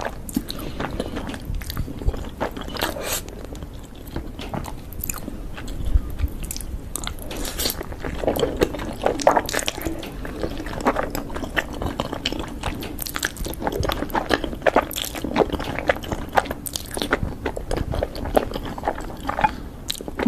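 Close-up eating: a person biting and chewing food, with frequent irregular crisp crunches and wet mouth sounds.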